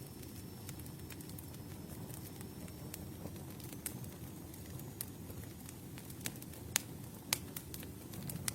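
Campfire burning: a steady low rumble of flames with scattered sharp crackles and pops from the wood, two louder pops near the end.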